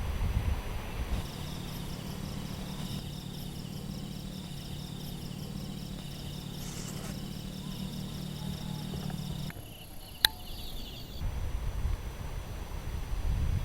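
Insects chirping in fast, evenly repeating pulses over a steady low hum. Gusts of wind rumble on the microphone at the start and again near the end, and there is a single sharp click about ten seconds in.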